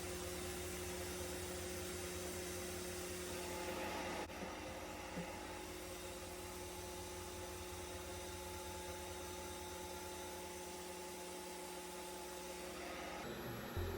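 RevAir reverse-air hair dryer running steadily, a motor hum with an even rush of air as it draws a section of hair into its chamber by suction; the level dips slightly about four seconds in.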